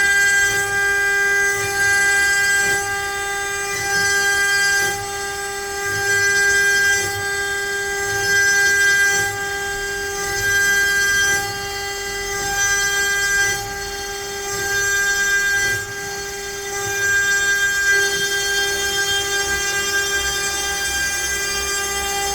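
CNC router spindle whining at one steady pitch while the bit cuts letters into pine. The sound swells and eases about every one and a half to two seconds as the cutter moves through the wood.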